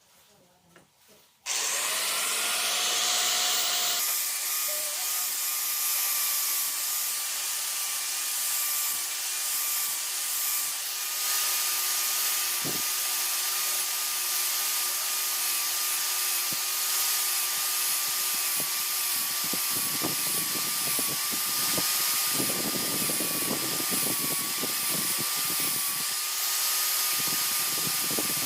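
An electric power tool switching on about a second and a half in, then running steadily with a constant whine and hiss. Rougher, grittier scraping comes and goes in the second half, as the work is pressed against it.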